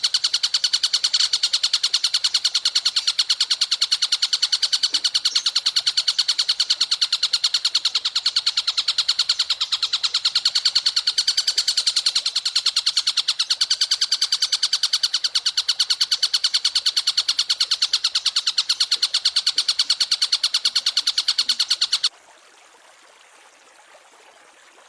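An animal's high-pitched trill, rapidly and evenly pulsed, held unbroken and steady for about 22 seconds, then cutting off suddenly.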